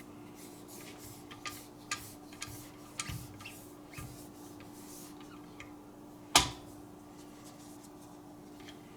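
Light clicks and taps from handling the Wicked Edge sharpener's diamond stone paddles while they are cleaned, with one sharp knock about six and a half seconds in. A faint steady hum runs underneath.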